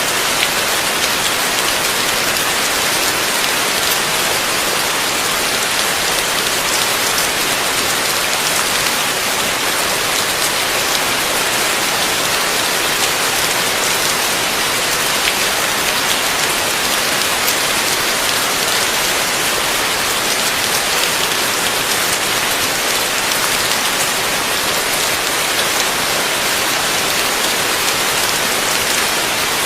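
Heavy rain falling steadily, a dense, even hiss of drops striking a surface with no thunder.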